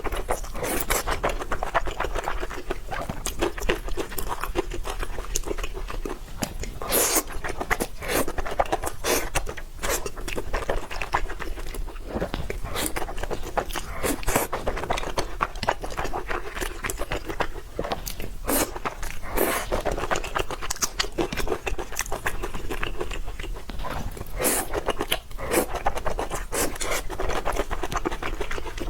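Close-miked eating: a person chewing and biting noodles, with a steady stream of short sharp clicks and crunches.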